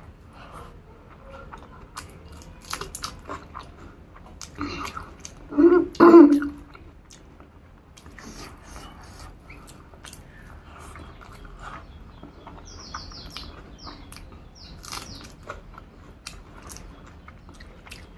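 Close-miked chewing and mouth sounds of a person eating a rice meal, with many small scattered clicks. Two louder short sounds come close together about six seconds in.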